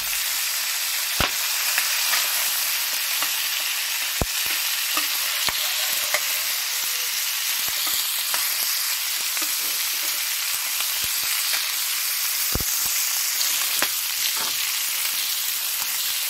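Chicken and bell peppers sizzling hard in oil in a large paella pan over a wood fire that is a little too hot, while being stirred constantly with a long ladle. A steady frying hiss, with a scattering of sharp clicks.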